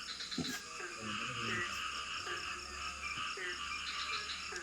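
Tropical forest night chorus: frogs giving short croaking calls about once a second over a steady, high-pitched drone of insects. There is a brief knock about half a second in.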